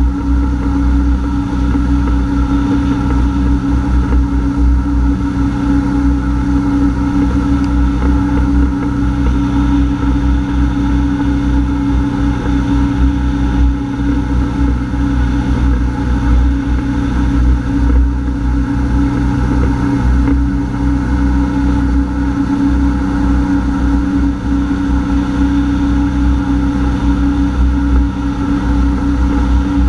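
Honda F-12X AquaTrax personal watercraft's engine running at a steady, unchanging pitch under constant throttle, with a loud, even drone.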